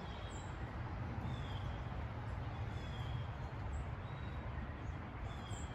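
Birds chirping faintly, a few short high chirps spread through, over a steady low rumble.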